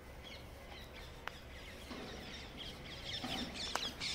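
Small birds chirping, sparse at first and busier in the second half, with two faint ticks.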